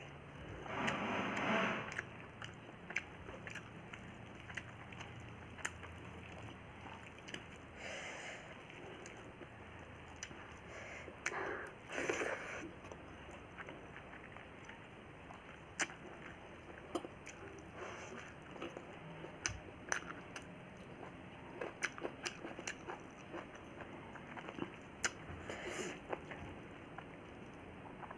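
Close-miked chewing and mouth sounds of someone eating rice, dal and vegetables, soft and moist, with many scattered small clicks and a few louder short bursts.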